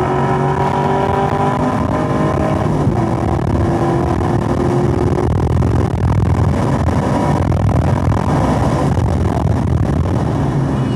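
Chevrolet Camaro SS 1LE's 6.2-litre V8 at full throttle, revving up in third gear and shifting to fourth about three seconds in, then pulling on through fourth with heavy wind and road noise. Near the end the engine note drops away as the car slows for the next corner.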